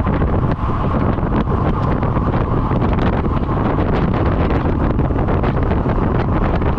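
Loud, steady wind rushing over the microphone of a camera riding on a road bike at speed.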